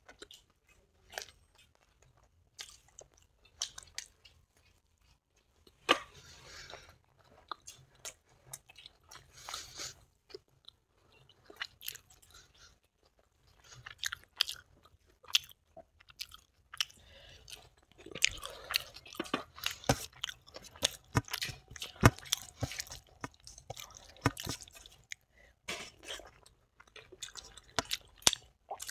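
Close-up chewing and crunching of crispy fried chila, with many short, sharp crackling bites that come thickest in the second half.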